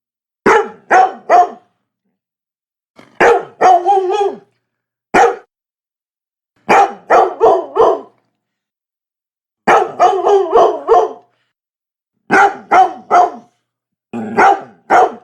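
Labrador barking in quick clusters of two to four sharp barks, one cluster every couple of seconds with silent gaps between them. One cluster near the start trails off into a longer, rougher sound.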